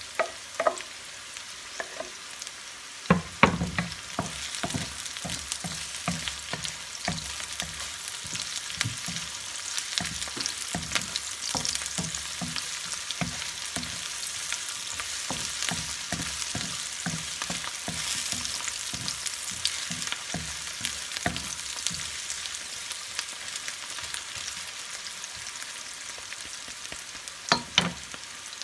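Chopped onion, ginger and garlic sizzling in hot oil in a wok, stirred with a wooden spatula that scrapes and knocks against the pan. A few louder knocks come about three seconds in and again near the end.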